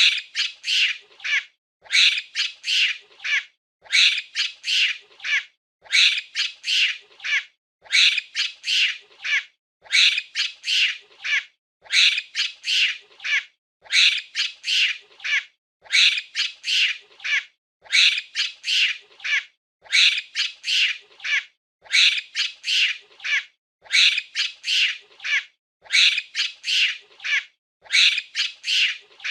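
Monkey screeching: bouts of several rapid, shrill calls, one bout about every two seconds, each repeating in the same pattern.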